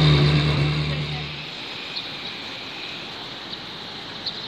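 A Ferrari V8 engine holding a steady drone just after a rev, cutting off abruptly about a second and a half in. After that, a steady outdoor rush of noise with a few faint clicks.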